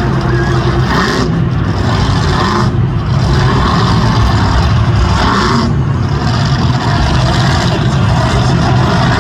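Monster truck engines running loud and hard, a continuous low engine drone with dense noise above it. The higher noise briefly drops away a few times, as if the throttle is lifted.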